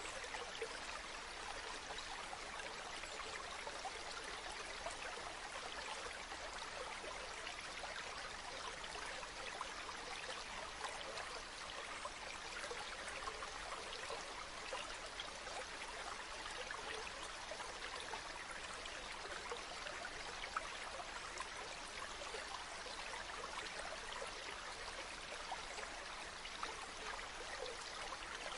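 Running water from a spring, flowing and splashing steadily with a fine trickling texture.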